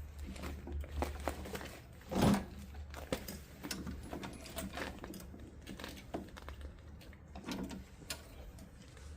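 Scattered light clicks and taps of hands and parts being handled at a small-engine carburetor with its float bowl removed, with one louder knock about two seconds in, over a steady low hum.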